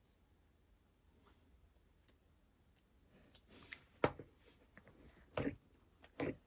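Slime being pressed and squeezed by hand, giving sharp wet clicks and pops: one faint click about two seconds in, then a quicker run of louder pops from about three seconds in.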